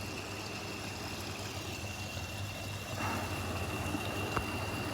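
1950 Ferguson tractor engine running steadily in the background, with a brief click about four seconds in.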